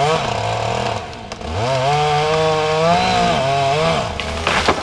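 Chainsaw engine revving in two bursts, its pitch climbing and dropping back each time. A short burst of harsh noise comes near the end.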